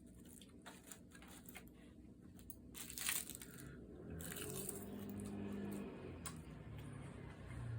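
Close-miked eating sounds: small clicks and bites, with a louder crunch about three seconds in, then a low hum alongside the chewing.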